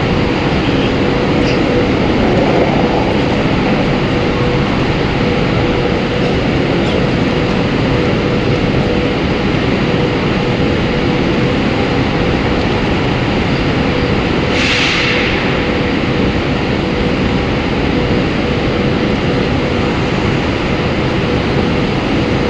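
Steady running noise of a Chinese high-speed train, with a faint constant hum and a brief hiss about fifteen seconds in.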